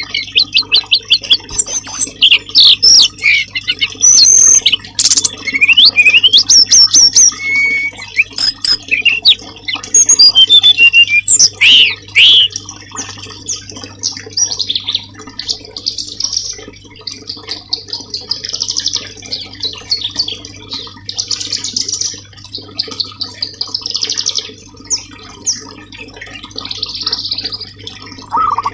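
Songbirds singing: loud, varied whistles, chirps and rapid trills for about the first twelve seconds, then softer buzzy trilled phrases repeated over and over. A steady low hum runs underneath.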